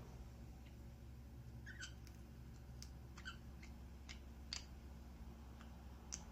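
Budgerigars making two short, soft chirps among several sharp clicks, over a steady low hum.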